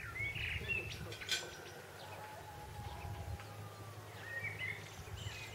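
Birds chirping: short rising and falling calls near the start and again toward the end, over a steady low hum.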